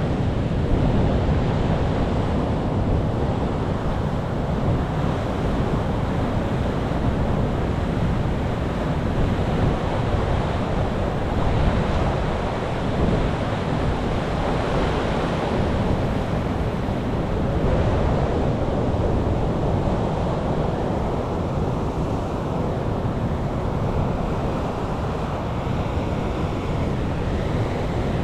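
Ocean waves breaking and washing on the shore, a continuous surf noise that swells and ebbs slowly every several seconds, with wind rumbling on the microphone.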